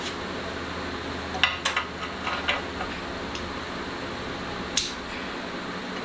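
Sharp metallic clinks of hand tools against engine parts: a quick cluster about a second and a half in and one more near the end, over a steady background hum.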